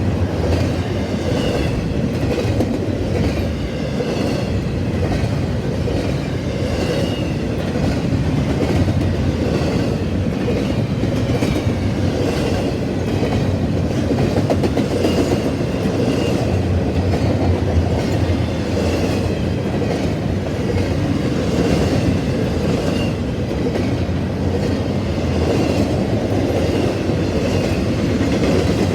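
Canadian Pacific freight train's cars rolling past at speed: a steady rumble of steel wheels on rail, with a regular clickety-clack as the wheels cross rail joints.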